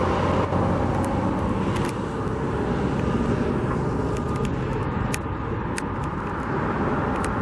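Steady road traffic noise mixed with wind rumbling on the microphone, with a few sharp clicks scattered through it.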